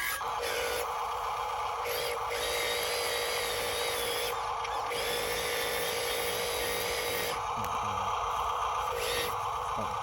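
Small electric motor of a radio-controlled dump truck whining, its tone shifting every second or two as the throttle changes.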